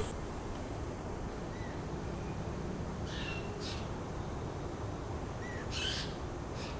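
A low, steady outdoor rumble with a few short bird calls, about a second and a half in, around three seconds and near six seconds, after a click as the sound starts.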